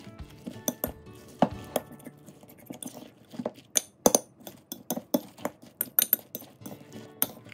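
Metal spoon clinking and scraping against a ceramic bowl while stirring shredded cabbage and peppers into beaten egg. The clinks come irregularly, with louder knocks about a second and a half in and about four seconds in.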